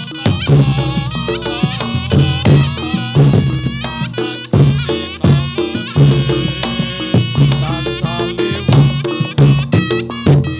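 Reog Ponorogo ensemble music for a jathilan dance: a wailing slompret shawm melody that bends and wavers in pitch, over a steady, regular beat of kendang drums and gongs.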